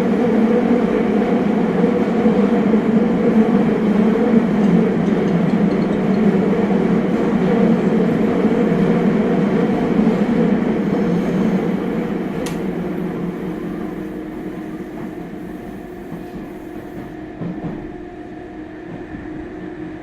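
Interior running noise of a Meitetsu 100 series train with Mitsubishi GTO-thyristor VVVF control in a subway tunnel, loud and steady, then dying away over the last several seconds as the train slows. A single sharp tick about twelve and a half seconds in.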